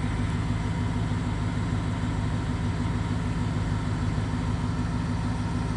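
1995 Chevrolet C-2500's 350 (5.7 L) small-block V8 with throttle-body injection idling steadily, a few minutes into warming up from a cold start.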